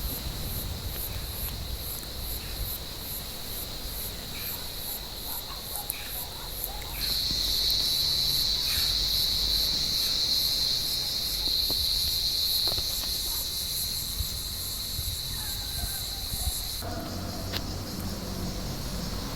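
Cicadas buzzing in an olive tree, a steady high-pitched drone. It grows louder about a third of the way in and cuts off suddenly near the end.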